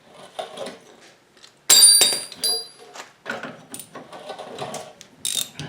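Metal hand tools and parts being handled: irregular clinks, knocks and rattles, with one loud, ringing metal clang about two seconds in.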